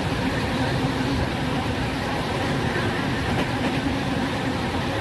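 A train running on the track, giving a steady noise.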